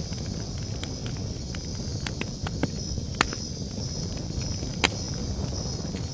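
Campfire crackling and popping, the two loudest pops about three and five seconds in, over the low rumble of the burning wood. A steady high chirring of night insects runs underneath.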